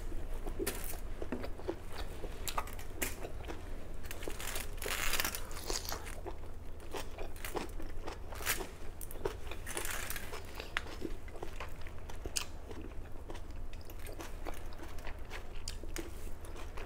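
A person chewing and biting crunchy vegetables, with repeated crunches and wet mouth clicks throughout.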